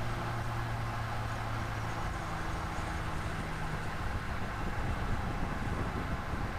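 A 2023 Chevrolet Colorado Z71 pickup's 2.7L turbo engine running as the truck drives, with a steady rush of tyre and road noise. The engine note holds a low, steady tone, and a second tone joins it for a couple of seconds in the middle.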